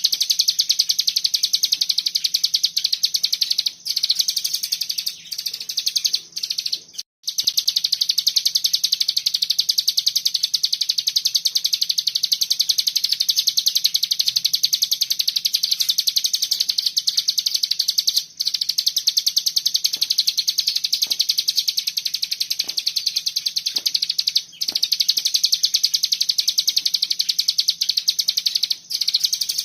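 Ciblek gunung (cigun) song given as a long, dense, very rapid high-pitched trill, the tight 'bren' that masteran tracks are used to teach, broken by brief pauses about 7, 18 and 24 seconds in. A faint steady low hum lies under it.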